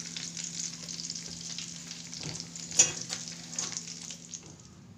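Chicken and potato cutlets deep-frying in hot oil in a pan: a steady crackling sizzle, with one sharp clack about three seconds in. A faint steady hum runs under it, and the sizzle cuts off near the end.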